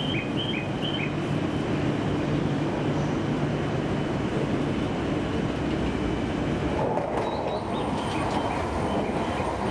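E5-series Shinkansen train pulling out of the station, a steady low running noise with a motor hum that grows louder about seven seconds in as the train nears. A few short high chirps sound near the start and again around eight seconds.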